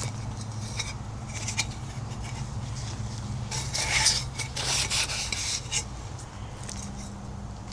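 Scrubbing and rubbing on a hard surface in irregular strokes, heaviest around the middle, over a steady low hum.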